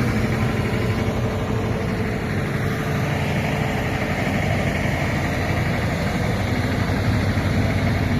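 Diesel engine of a heavy earthmoving machine running steadily at an even, low speed.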